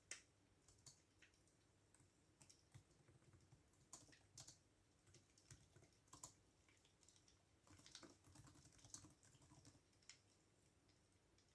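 Faint typing on a computer keyboard: irregular keystroke clicks in short runs with pauses between, thinning out near the end.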